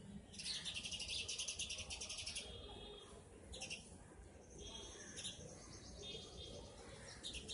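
Background birdsong: a fast, faint trill of high chirps for about two seconds, followed by scattered short whistled notes.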